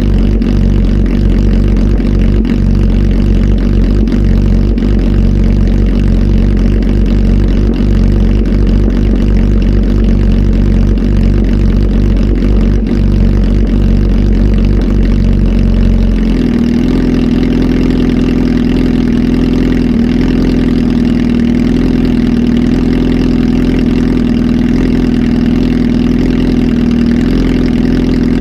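Kawasaki Z H2 SE's supercharged inline-four, flash tuned and running through a full exhaust system, running loudly at idle. A bit over halfway through, the engine note steps up abruptly and then holds steady at a higher pitch.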